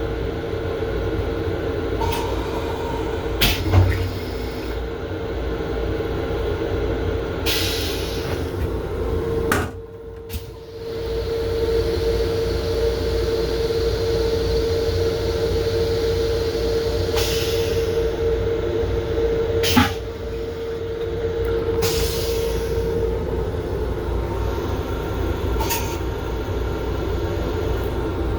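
Long Island Rail Road M7 electric railcar running, heard from inside its restroom: a steady rumble with a steady tone through the middle, a few sharp knocks and rattles, and a brief drop in noise about ten seconds in.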